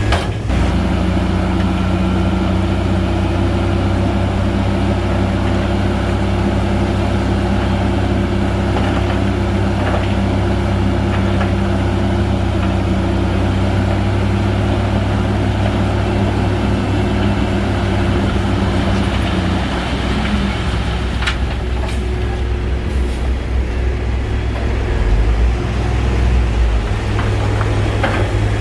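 Shantui heavy bulldozer's diesel engine running steadily under load. About two-thirds of the way through its steady note drops away, and a deeper low rumble swells near the end.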